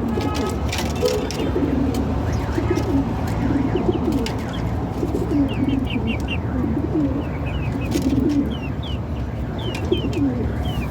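Pigeons cooing over and over in low, rolling calls, with short high chirps joining in from about five seconds in.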